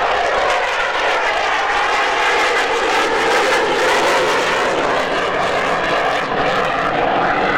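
Twin Pratt & Whitney F119 turbofans of an F-22 Raptor flying a low pass: loud, steady jet noise with faint wavering tones in it.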